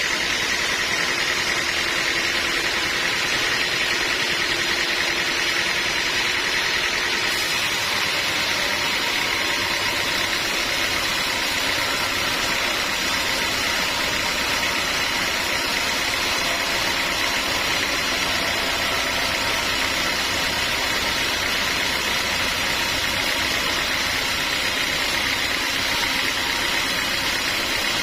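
Sawmill machinery running steadily, an even engine-like hum with a steady high whine; the sound shifts slightly about seven seconds in.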